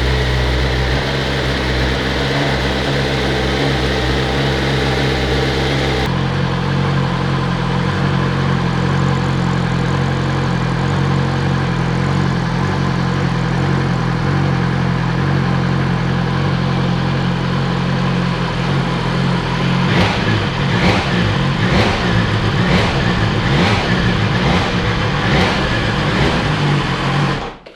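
BMW S1000XR's inline-four engine idling steadily, then, from about 20 seconds in, blipped with a quick series of short throttle revs.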